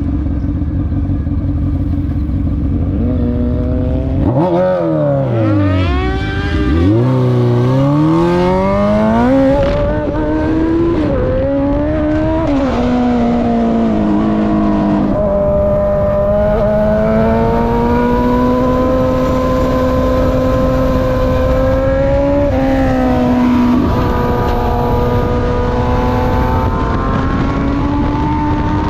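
Honda 919's inline-four engine on the move: its pitch swoops sharply down and back up about five seconds in, changes several times over the next twenty seconds as the revs rise and drop, then holds a steady note that climbs slowly near the end.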